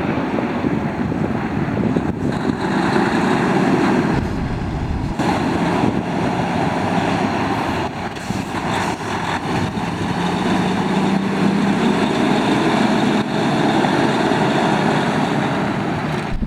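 Diesel engine of a Freightliner Cascadia tractor truck running steadily, with a low drone that grows stronger about ten seconds in.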